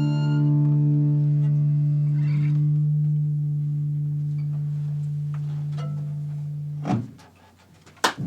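The band's final chord held and ringing out: a low steady note with overtones, slowly fading, stopped suddenly about seven seconds in. After a moment of near silence, clapping starts right at the end.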